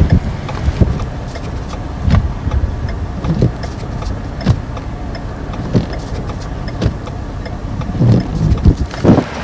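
Blizzard wind gusting hard and buffeting the microphone in a low rumble, swelling again about eight seconds in.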